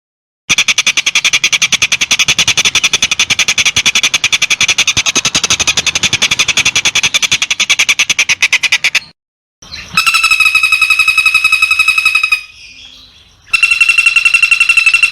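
Recorded animal calls cut together for a bird-song training track. First comes a long, rapid, dry trill of many pulses a second, lasting about eight seconds. After a brief cut come two buzzy calls at a steady pitch, each about two and a half seconds long.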